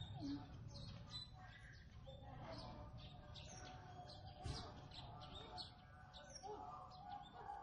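Small birds chirping: a steady stream of short, high chirps.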